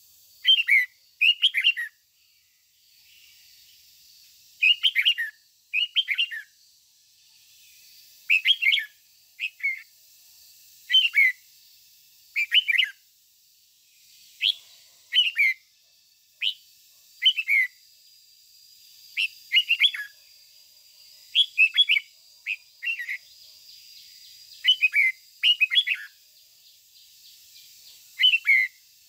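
Red-whiskered bulbul singing short, loud phrases of a few gliding whistled notes, one every second or two.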